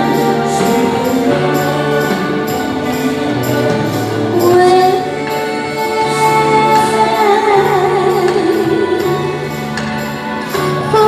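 Accompaniment music with a steady beat, and a singer's voice coming in about four and a half seconds in with held, wavering notes.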